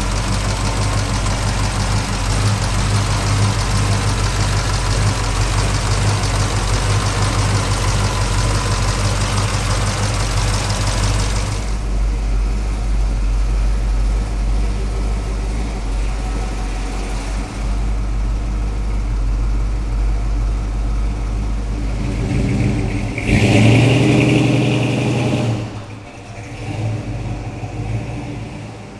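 Vehicle engine running steadily, revving up louder a little before the three-quarter mark and dropping back a few seconds later.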